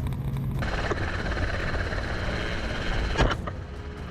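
Steady engine noise of a vehicle. About half a second in it changes abruptly to a louder, hissing rush, with a single sharp knock near the end.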